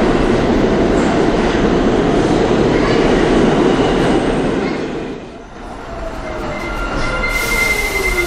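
Subway train running along the track with dense, loud running noise for about five seconds. The noise then drops away and a falling electric motor whine with steady high tones comes in as the train slows.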